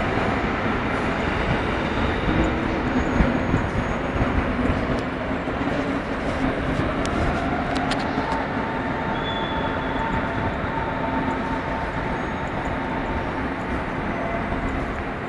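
Train running through the station: a steady rumble with a faint whine that rises about six to eight seconds in.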